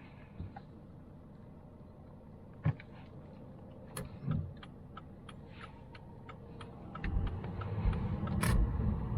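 Volvo C70 being started: a few knocks and a run of evenly spaced ticks, then about seven seconds in the engine starts and keeps running with a low rumble.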